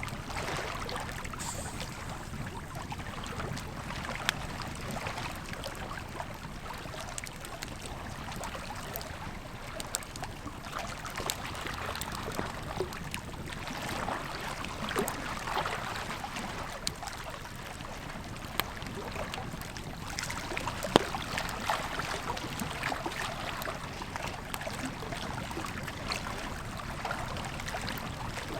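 Campfire crackling with occasional sharp pops over the steady rush of a flowing river.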